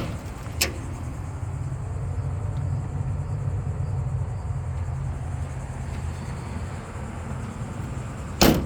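7.3 L Power Stroke turbo diesel engine running at a steady idle, a low hum. There is a sharp click about half a second in and a louder knock near the end.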